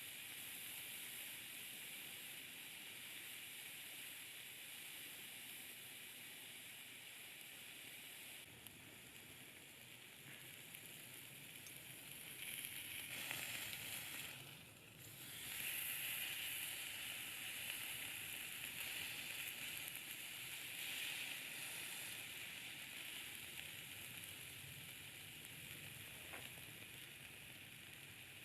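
Steak sizzling as it grills over a campfire: a steady frying hiss that grows louder about halfway through, dips briefly, then comes back stronger.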